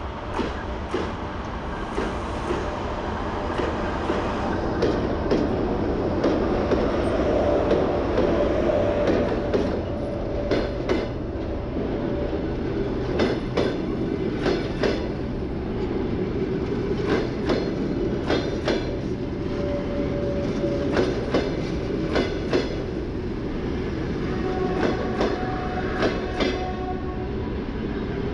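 A 2ES4K electric locomotive and its passenger coaches passing close by: a rumble as the locomotive goes past, loudest several seconds in, then the coaches' wheels clicking over rail joints in groups every few seconds.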